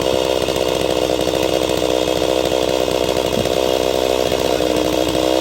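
Two-stroke chainsaw, a clone of the Stihl MS250, running at steady high revs while cutting a log in half.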